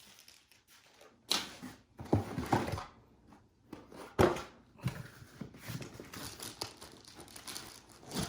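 Handling noises from unpacking vacuum parts: irregular rustling and crinkling of packaging with a few knocks of hard plastic, the sharpest about four seconds in.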